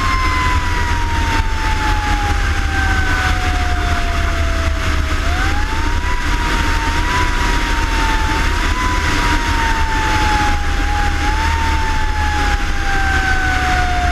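Fire engine's mechanical siren slowly winding down in pitch, then wound back up and given several short boosts, over heavy engine and road rumble of the moving truck.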